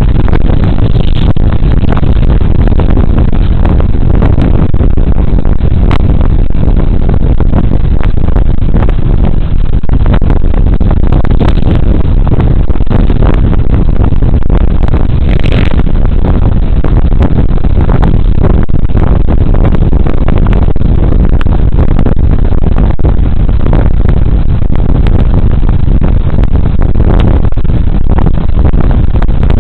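Loud, steady rush of wind and road noise on a body-worn camera's microphone while riding a Suzuki Burgman Street 125 scooter, with occasional brief buffets.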